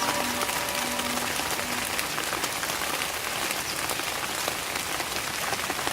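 Steady rain falling: an even hiss, with many small, separate taps of drops striking surfaces.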